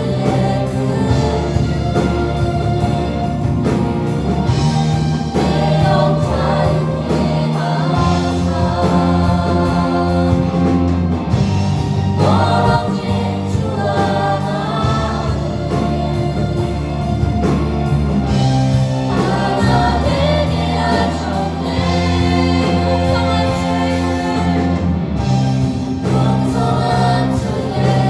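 A group of voices singing a Christian praise song over instrumental accompaniment with sustained bass notes and a steady beat.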